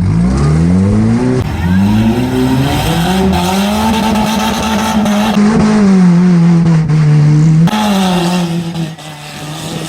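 Demolition derby car engine revving hard: its pitch climbs steeply from low at the start, holds high at full throttle with small dips, sags and rises again, and falls away near the end.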